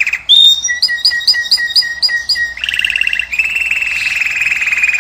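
Finch song: a rapid trill, a run of about eight short repeated notes at roughly four a second, then long fast rattling trills.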